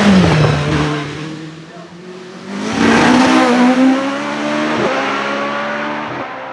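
Single-seater hillclimb race car at full throttle: the engine note falls in pitch as it passes close by, then it is heard again accelerating hard, pitch climbing, with two quick upshifts near the end.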